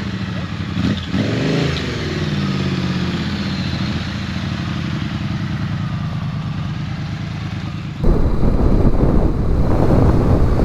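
Motorcycle engine running while riding, its pitch rising as it accelerates a second or two in, then holding steady. About eight seconds in the sound turns abruptly louder and rougher.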